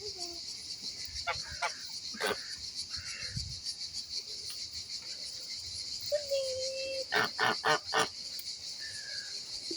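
Waterfowl calling: scattered short calls, then four loud calls in quick succession about seven seconds in, over a steady high-pitched hiss.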